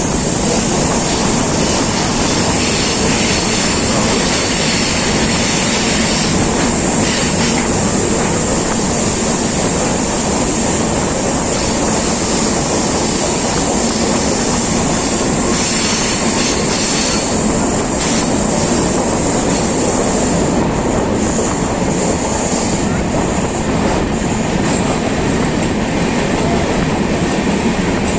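Kashi Express passenger train running on the rails: a loud, steady rumble of wheels and coaches with a thin, high, continuous squeal from the wheels.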